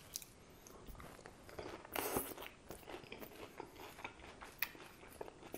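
Close-miked chewing of a mouthful of crunchy iceberg-lettuce salad: irregular crisp crunches, the loudest about two seconds in.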